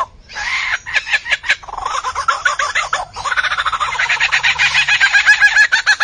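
A bird calling: choppy strings of clucking notes, then from about three seconds in a fast, even rattle of repeated notes.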